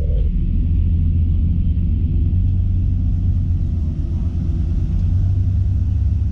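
Steady low rumble inside the cabin of an Airbus A321 airliner.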